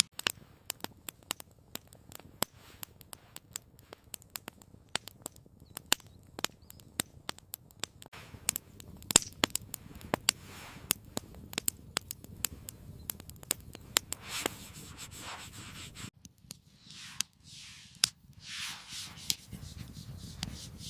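Wood campfire crackling, with many sharp irregular pops and snaps. A few soft swishing sounds come near the end.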